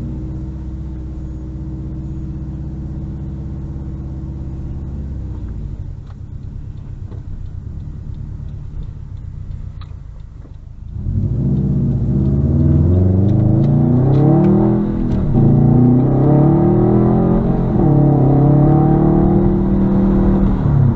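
2021 Subaru WRX STI's turbocharged 2.5-litre flat-four with its mufflers deleted, running steadily and then quieter off the throttle; about eleven seconds in it accelerates hard, the pitch climbing, dropping back at two upshifts and climbing again.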